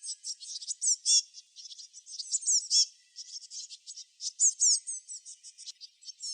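Small songbirds chirping busily: many quick, high-pitched chirps and short downward-sweeping notes overlapping with hardly a pause.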